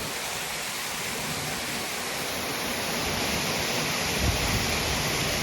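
Waterfall cascading down a rocky drop: a steady rushing of falling water that grows a little louder partway through.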